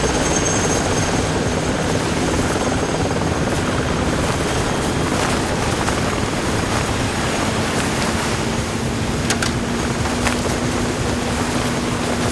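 Helicopter in flight: steady, unbroken rotor and turbine noise.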